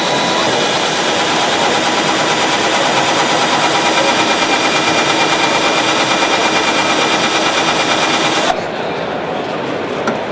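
A power tool running with a fast, even pulsing, stopping suddenly about eight and a half seconds in.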